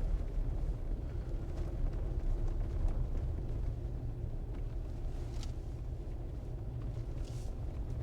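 Jeep driving on an unplowed, snow-covered dirt road: a steady low rumble of engine and road noise.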